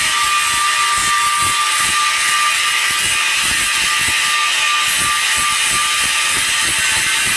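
Welding arc on a steel pipe joint, a steady hissing crackle that stays even throughout, with a faint steady high tone under it.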